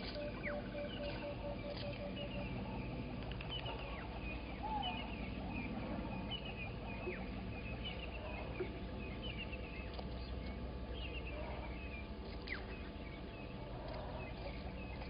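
Morning chorus of wild birds chirping and calling, with many short high chirps and falling whistles, and a run of evenly repeated low notes in the first couple of seconds.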